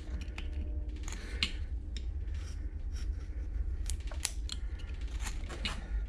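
Carving knife shaving and slicing small cuts in wood, rounding a carved figure's leg: irregular short crisp cuts and scrapes, several a second, over a steady low hum.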